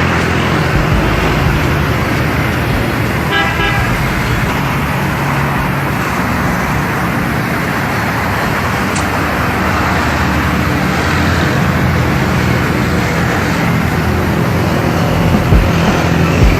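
Road traffic running steadily, with a car horn sounding briefly about three seconds in.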